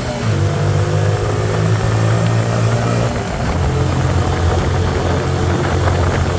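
Hyosung Aquila 125's small V-twin engine running under way, its note shifting in pitch a couple of times around the middle, over a steady rush of wind and road noise.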